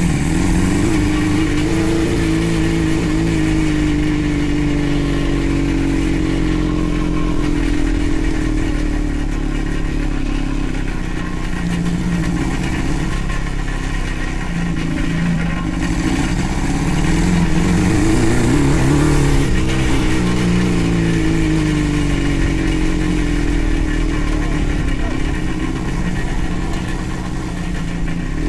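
The 600cc engine of a home-built kart running under load while being driven, its revs rising and falling gradually.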